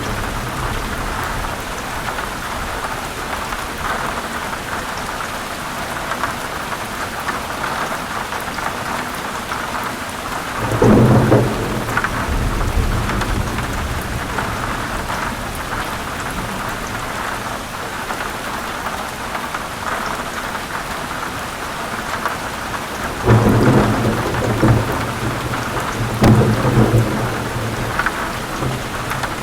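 Steady heavy rain falling on forest leaves, with thunder rolling three times: once about a third of the way in and twice close together near the end.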